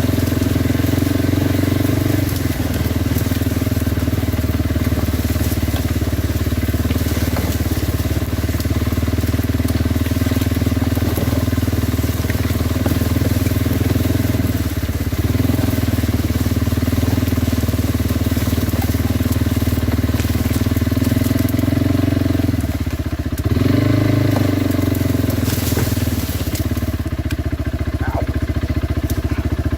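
Kawasaki Brute Force 300 ATV's single-cylinder engine running steadily under throttle while riding. Its note dips and picks back up a few times: a couple of seconds in, about halfway, and about three-quarters through, as the throttle eases and comes back on.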